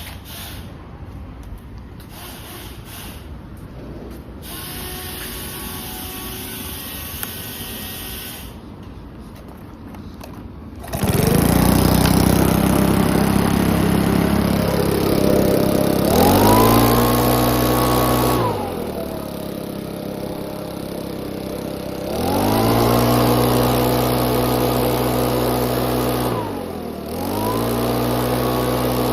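Makita EUB4250 engine blower starting about a third of the way in after some quieter handling noise, then running and being revved up twice, the pitch climbing and falling back to idle between, with a brief dip near the end.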